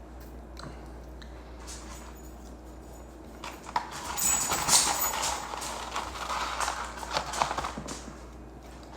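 Close-up eating noises: a burst of irregular clicks and rustling starting about three and a half seconds in and dying away about four seconds later, over a steady low hum.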